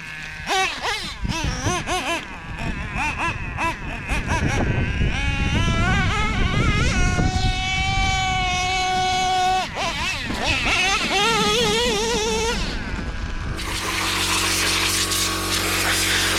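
O.S. 21TM two-stroke nitro engine of an RC monster truck revving up and down in quick bursts, then held at high revs for a few seconds. About three-quarters of the way through it drops to a steady, lower running note with a hiss over it.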